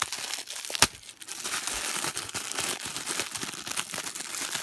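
Plastic blind-bag packaging crinkling and tearing as it is opened by hand, with one sharp snap about a second in.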